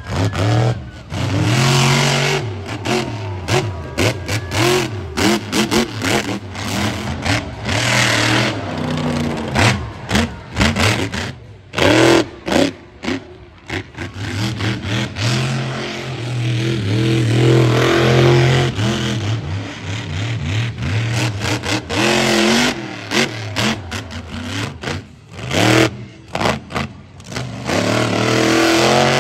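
Monster truck engines revving hard. The throttle is opened and closed again and again, so the engine note climbs and falls, with many abrupt cuts in between.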